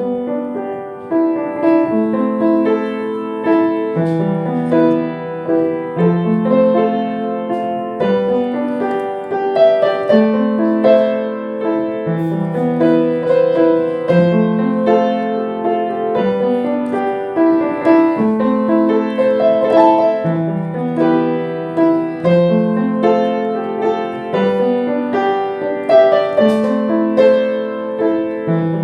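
Solo piano music: a slow piece with a bass note changing about every two seconds under a flowing melody.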